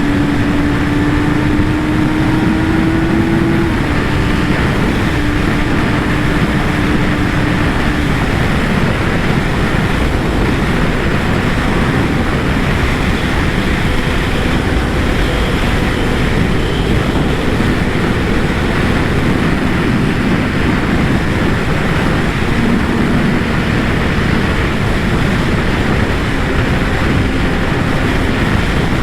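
Kawasaki ZX-10R inline-four engine running at speed, heard under heavy wind rush on the microphone while riding; the engine note rises a little in the first few seconds, then holds steady at a cruise.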